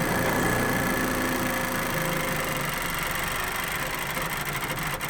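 1953 Packard straight-eight engine being cranked over by its starter on a cold start, turning over steadily without catching.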